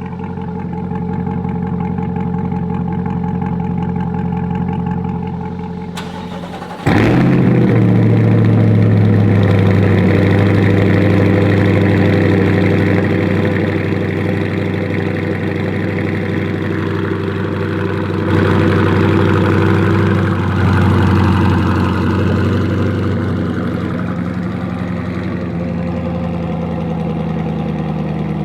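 Chevrolet C8 Corvette's mid-engine V8 idling through a freshly fitted AWE Track cat-back exhaust, a steady, deep drone. About seven seconds in it turns abruptly louder, with two brief swells later on, and the idle eases slightly lower near the end.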